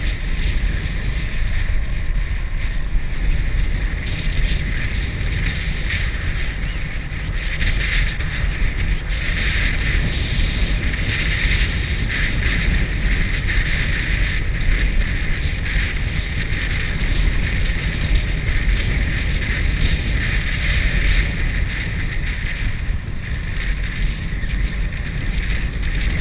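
Steady rush of wind on the microphone from riding at speed, over a continuous low rumble, swelling a little in the middle.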